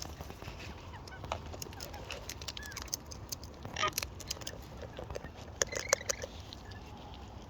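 Wild parrots giving short squeaky calls and chirps while feeding, with a louder call about four seconds in, amid scattered sharp clicks and taps.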